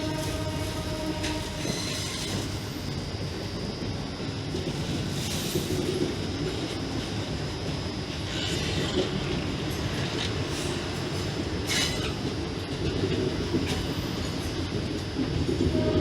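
Indian Railways express train running along the track: a steady rolling rumble of the wheels, with a few brief high-pitched wheel squeals about a third, half and three-quarters of the way through.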